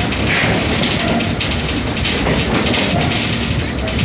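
Passenger train running along the track, heard from on board: a steady rumble and rattle of the wheels and cars.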